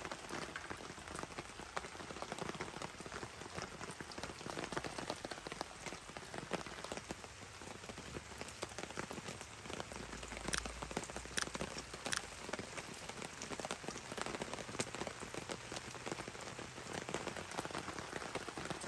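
Steady rain falling on a tarp shelter and the surrounding forest, with many small drop ticks and a few louder drops about ten to twelve seconds in.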